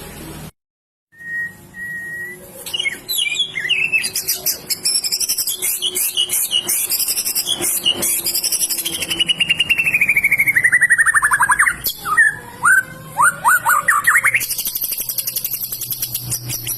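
White-rumped shama (murai batu) singing a loud, varied song: a held whistle, then quick high chirps, a long trill sliding down in pitch about ten seconds in, and rapid high notes near the end.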